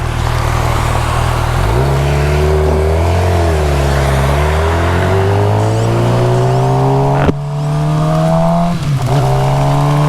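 Suzuki GSX-R750's inline-four engine pulling up through the revs as the bike accelerates, the pitch climbing steadily, dipping briefly about nine seconds in and then climbing again. Dense wind and heavy-rain noise runs under it, with a sharp click about seven seconds in.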